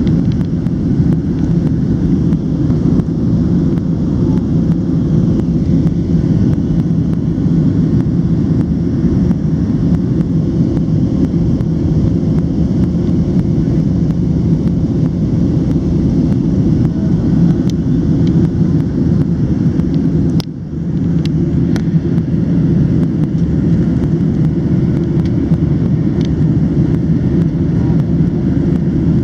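Boeing 737-700 cabin noise: a steady low rumble of the CFM56 engines and airflow. It dips briefly about two-thirds of the way through.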